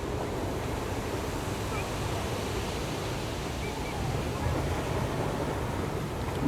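Ocean surf washing on the shore: a steady rush of waves that swells slightly about four seconds in.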